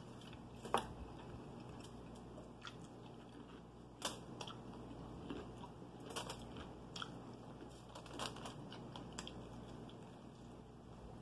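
Close-up chewing of fried chicken, with scattered short clicks and crackles as fingers pick pieces off aluminium foil. The sharpest click comes just under a second in, another about four seconds in.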